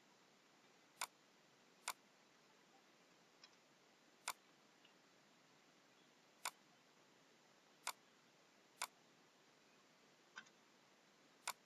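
Computer mouse clicking while drafting: seven sharp single clicks at irregular intervals of about one to two seconds, with two fainter clicks between them, over a faint steady hiss.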